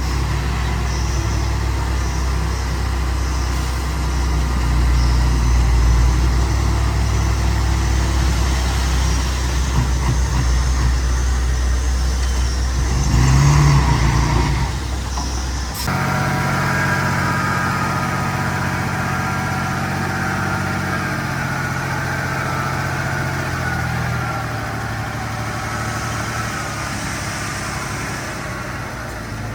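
Diesel engine of heavy earthmoving machinery running steadily, swelling briefly louder a little before halfway. About halfway through the sound changes abruptly to a different, lighter engine note that runs on and slowly fades.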